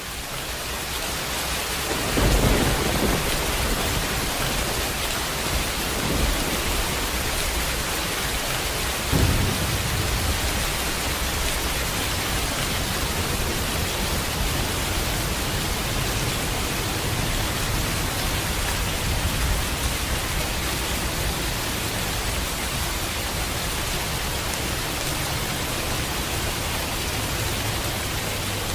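Steady heavy rain with rolls of thunder: a deep rumble about 2 seconds in, another near 6 seconds and a sharper clap about 9 seconds in, then steady rain alone.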